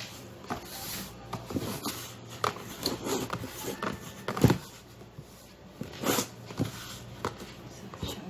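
Scattered knocks, taps and rustles of things being handled, the loudest a thump about four and a half seconds in, over a faint steady low hum.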